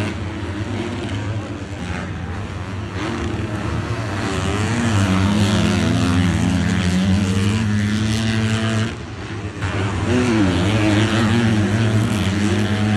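Motocross bike engines running and revving, the pitch rising and falling over a steady low drone. The sound dips briefly about nine seconds in.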